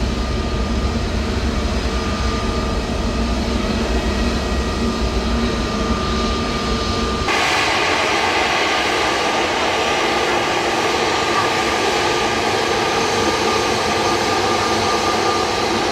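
Jet aircraft engine noise: a steady low rumble with a whine. About seven seconds in it cuts abruptly to a brighter, hissier jet sound with much less low rumble.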